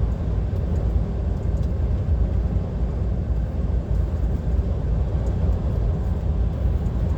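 Inside the cab of a DAF XF 530 lorry cruising on a motorway: a steady low drone of the engine and road rumble from the tyres.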